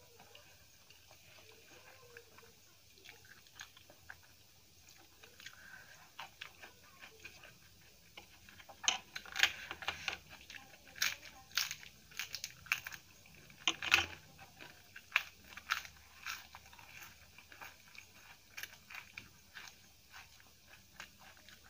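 Crisp papadam crunching as it is bitten and chewed, close up. Quiet mouth sounds at first, then a run of sharp crackling crunches from about nine seconds in that thins out near the end.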